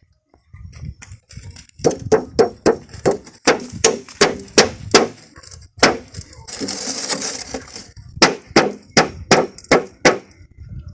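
A hammer driving nails into a car tyre: two runs of quick, sharp blows about three a second, with a short scrape between them.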